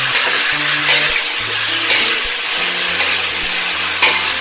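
Pineapple chunks sizzling as they fry in hot oil in an aluminium wok, while a metal ladle stirs them and scrapes against the pan a few times.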